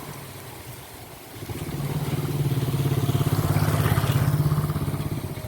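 A motor vehicle engine passing: it grows louder from about a second and a half in, holds at a steady pitch, then fades near the end.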